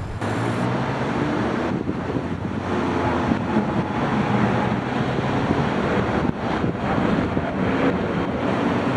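Distant jet airliner engines, a steady rushing roar with a wavering low hum that slowly grows louder.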